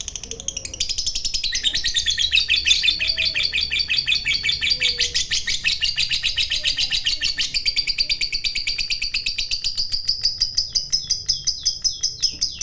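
Lovebird singing a long 'ngekek' chatter: a rapid, unbroken run of high, sharp chirps, about ten a second, after a short pause near the start.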